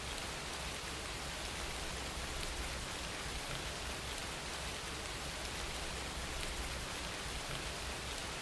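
Steady rain falling, an even hiss with faint scattered drop ticks over a low rumble.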